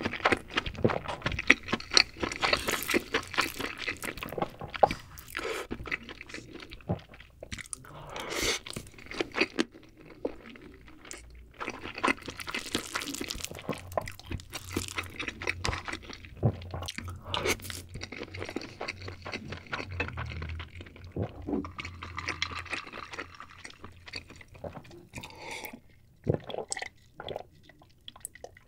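Close-miked chewing and mouth sounds of king crab meat and rice being eaten, with a wooden spoon scooping and scraping in the crab shell. Near the end there are sips from a drink.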